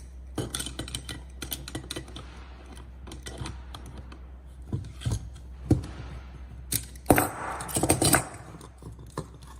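Metal clicks and clinks of a spanner working a brass compression nut loose and off a copper pipe. Scattered through, with a louder run of clinking about seven seconds in.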